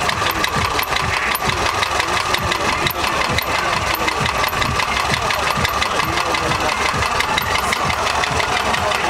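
VAZ 2110 16-valve four-cylinder engine running steadily at idle with no oil in it, its low, even firing strokes repeating without change.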